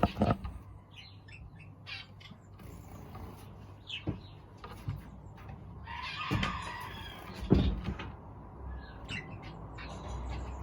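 Aviary birds chirping now and then, with a few sharp taps and a short burst of rustling about six seconds in, over a low steady hum.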